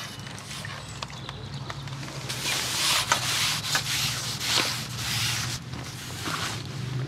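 Rubbing and scraping from handling fishing tackle, coming in patches about a second long, with a few sharp clicks.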